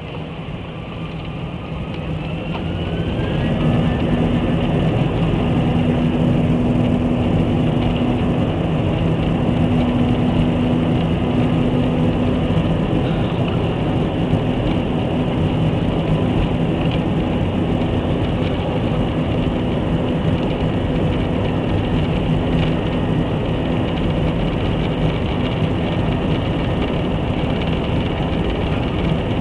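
Jet airliner engines, heard from inside the cabin, spooling up to takeoff power with a rising whine over the first few seconds. After that comes a steady loud rumble of engines and wheels during the takeoff roll.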